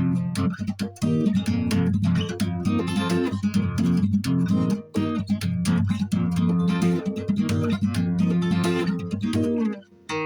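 Solo guitar played freely, a continuous run of plucked notes and strums that breaks off just before the end.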